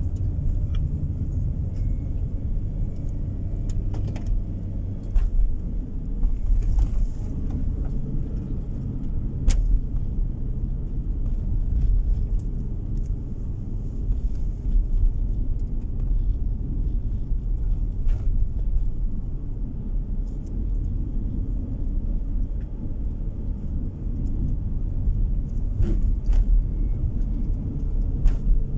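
Car driving along a road, heard from inside the cabin: a steady low rumble of tyres and engine, with a few light clicks or knocks now and then.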